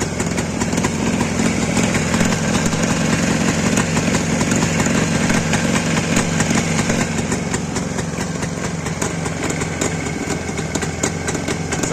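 Freshly rebuilt motorcycle engine, with third-oversize pistons, new connecting rods and an SKF bearing, running steadily at idle on a test run. It sounds even, with no knocking from the pistons or the gearbox.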